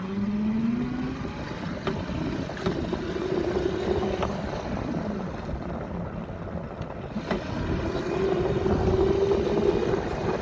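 Dirt bike engine running under way, its pitch rising as it accelerates in the first second, then held at steady revs twice, heard from a phone in the rider's pants pocket.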